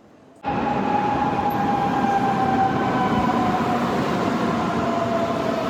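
A vehicle running: a loud, steady rumble with a clear whine that slowly sinks in pitch, cutting in abruptly about half a second in.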